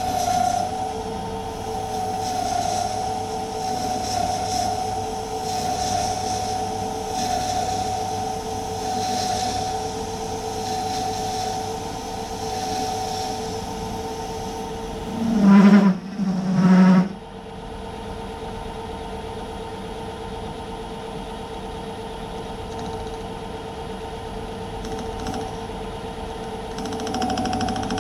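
Myford lathe running with a steady whine while taking a heavy roughing cut on a metal bearing housing. About halfway through come two short, loud low tones, after which the cutting noise falls away and the lathe runs on.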